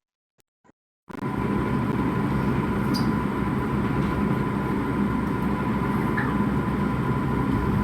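Steady low rumbling noise with a thin constant tone in it starts abruptly about a second in, after near silence with a few faint clicks.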